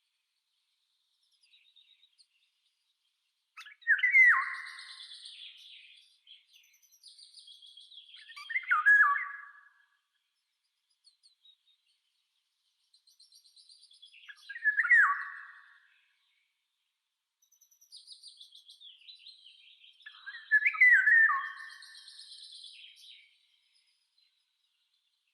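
Songbirds calling: four loud chirping phrases, each dropping in pitch and lasting about a second, come roughly every five to six seconds, with fainter high twittering between them.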